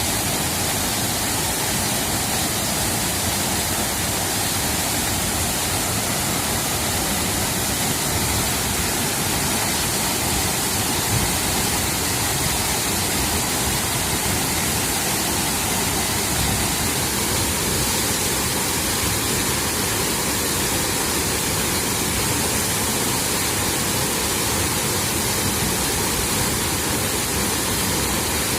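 Waterfall running: a loud, steady, unbroken rush of falling water.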